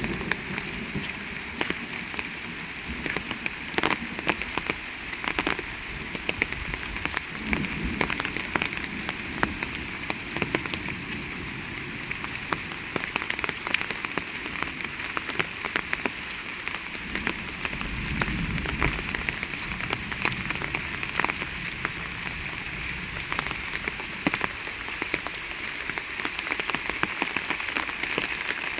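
Heavy rain falling steadily, with frequent sharp drops striking close by.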